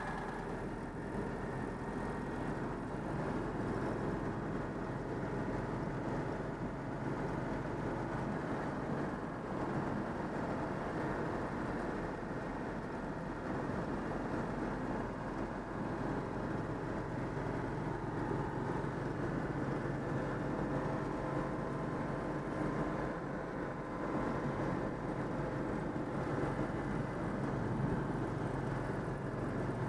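Citroën 2CV's air-cooled flat-twin engine running steadily while the car drives along, with road noise, just after a fresh engine overhaul.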